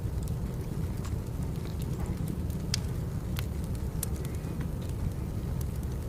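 Wood fire burning: a steady low rumble with scattered sharp crackles and pops, a few louder pops near the middle.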